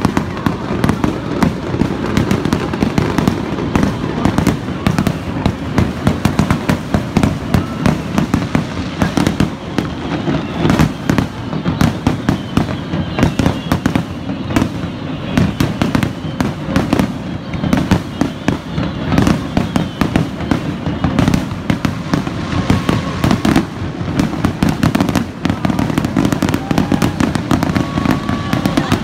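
Fireworks display: a continuous barrage of aerial shells bursting in rapid succession, many bangs and crackles following one another with no break.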